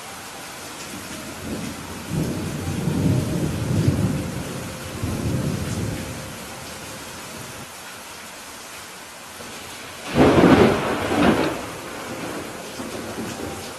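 Steady rain with thunder. A low rolling rumble builds about two seconds in and fades by six, then a loud, sudden thunderclap cracks about ten seconds in, with a second crack a second later.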